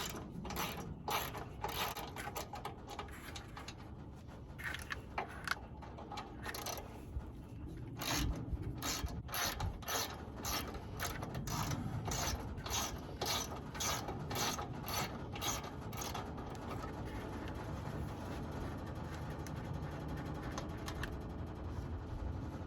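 Hand ratchet wrench clicking as bolts are worked loose to take off a cooler: irregular clicks at first, then a steady run of strokes about two a second, stopping several seconds before the end.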